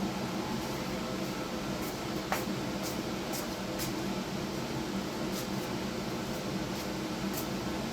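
Steady electrical hum and hiss from a TIG welding setup at work on stainless steel exhaust tubing, with a few faint sharp ticks and one click about two seconds in.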